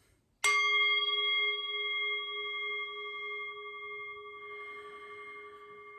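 A meditation bell struck once about half a second in, ringing on with several clear overtones and a long, slow fade: the signal that opens the meditation.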